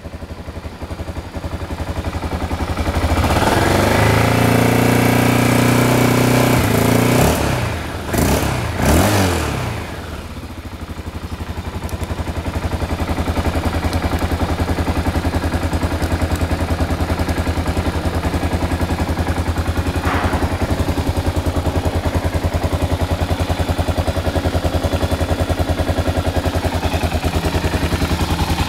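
BMW F 650 (Typ 169) single-cylinder four-stroke engine running. It is revved up and held for a few seconds, blipped twice quickly, then settles to a steady idle. The exhaust header is leaking where it meets the connecting pipe.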